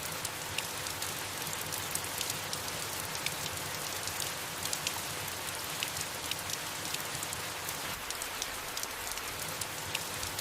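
Steady soft rain falling on leaves, an even hiss dotted with many small individual drop ticks.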